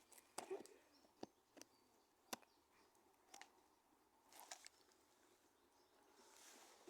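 Faint, scattered pops and crackles of a burning wood campfire: a few sharp clicks every second or so over near-quiet background.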